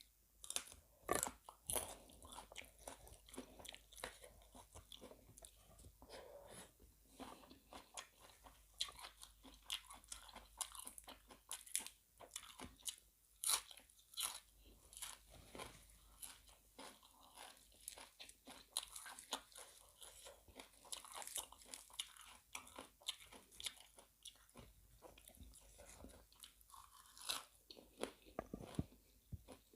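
A person chewing and crunching food, with irregular crisp crunches and bites throughout: fresh raw vegetables eaten with spicy seafood larb.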